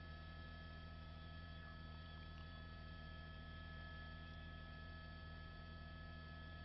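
Faint steady electrical hum made of several constant tones, low and high, that do not change.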